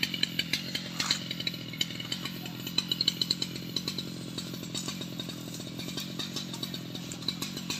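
STIHL MS 881 chainsaw running steadily.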